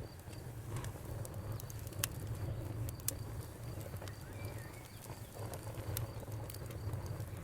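Wood fire crackling: sharp, irregular pops and snaps over a low, steady rumble.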